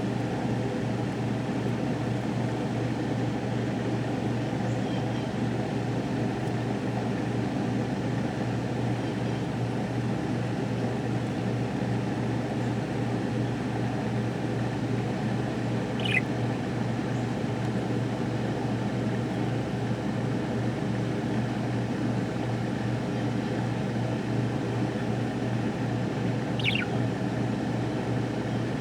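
Budgerigar giving two short, high chirps that fall in pitch, one about halfway through and one near the end, over a steady low hum and background noise.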